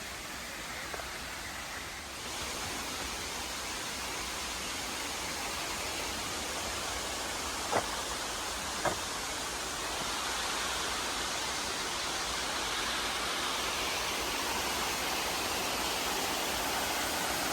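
Steady rushing of creek water, growing a little louder about two seconds in, with two short clicks near the middle.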